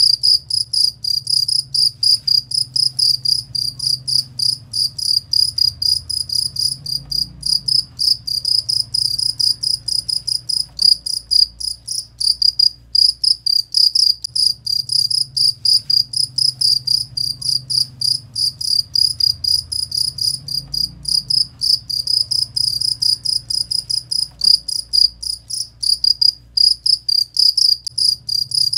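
Cricket chirping fast and steadily: a shrill, high pulsed trill repeated several times a second, over a faint low hum.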